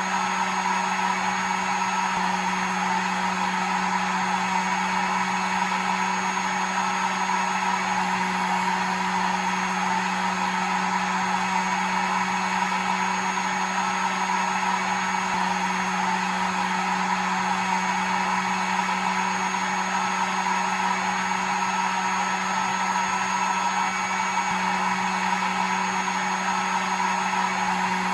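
Hair dryer running steadily, a constant motor hum under an even whoosh of air with a faint high whine.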